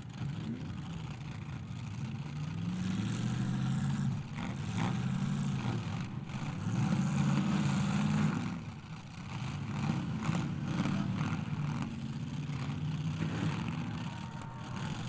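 Demolition derby car engines revving again and again, the pitch climbing and falling back with each swell.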